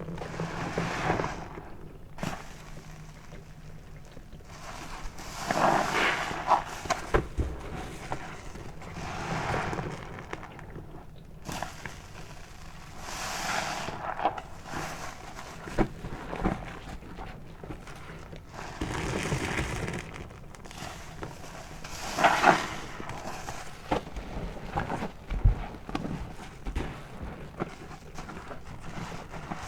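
A sponge soaked with body soap is squeezed again and again, a wet squelch every few seconds, with small popping clicks as the foam is pressed.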